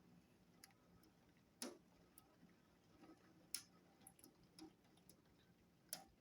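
Near silence with a few faint, irregular clicks spread through it.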